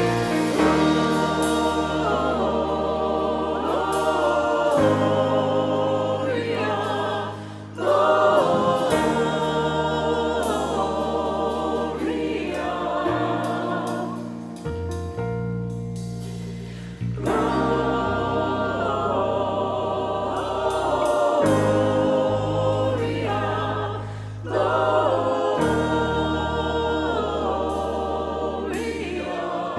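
Choir singing with instrumental accompaniment, a sustained bass line under moving sung melody, with brief pauses between phrases.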